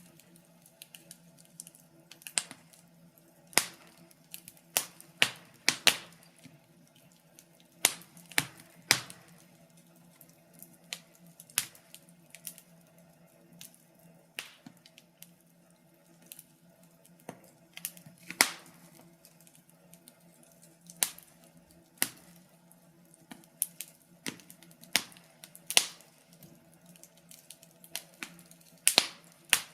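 Wood fire crackling: irregular sharp pops and snaps, a few of them louder, over a faint steady low hum.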